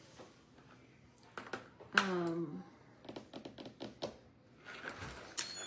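A quick run of light clicks and taps from paint markers and small wooden craft pieces being handled on a table, with a short voiced sound about two seconds in.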